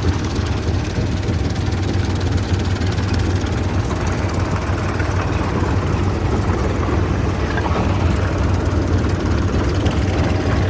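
Heavy machinery engine running steadily with a strong low hum.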